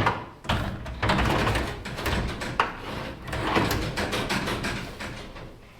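Livestock trailer's metal door and gates rattling and banging, in irregular clatters and knocks.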